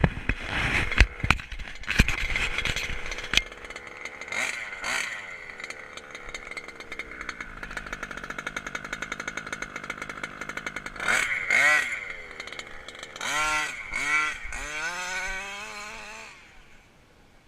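HPI Baja RC car's 29cc SZC reed-valve two-stroke petrol engine running and revving in repeated high-pitched surges, the pitch falling away after each. Sharp knocks sound in the first few seconds, and the engine fades out near the end.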